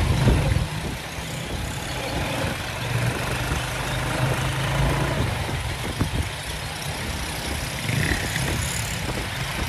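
A motor vehicle's engine running steadily with a low hum, under a constant wash of outdoor noise.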